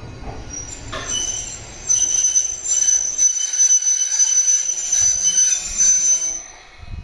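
Electric commuter train's wheels squealing on the rails, a shrill high-pitched squeal for about five seconds that cuts off as the train comes to a halt at a station, with a low thump near the end.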